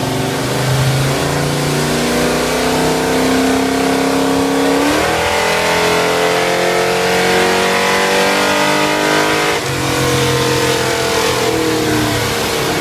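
Big-block Chevrolet V8 breathing through a Magnaflow 3-inch stainless exhaust, pulling at wide-open throttle on a chassis dyno with the revs climbing steadily. After about ten seconds the throttle closes and the revs fall away.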